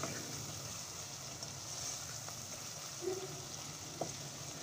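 Minced meat with onions sizzling steadily in hot oil in a nonstick pan while a spatula stirs it, the qeema being fried until browned (bhuna). A small tap of the spatula about four seconds in.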